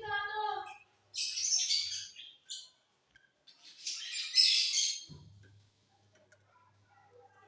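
Lovebirds chattering and squawking in harsh, high bursts of about a second each, with a short break about three seconds in, then going nearly quiet near the end.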